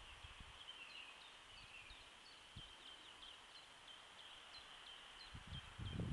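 Faint birds chirping in woodland: many short, high chirps repeated one after another over a steady hiss. Low rustling thuds begin near the end.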